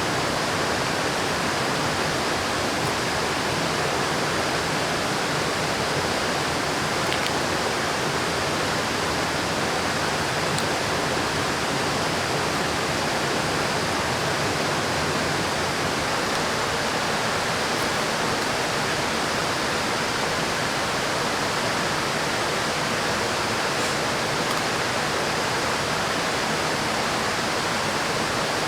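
River water rushing past, a steady unbroken noise.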